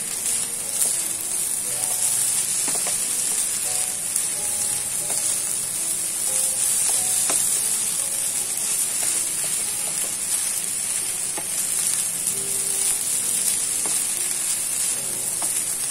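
Fried rice sizzling steadily in a hot non-stick pan while a wooden spatula keeps stirring and turning it, with light scrapes and taps of the spatula against the pan.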